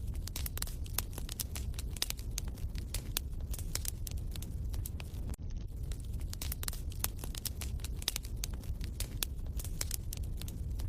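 Wood fire crackling in a fireplace: irregular sharp snaps and pops over a low, steady rumble of flames.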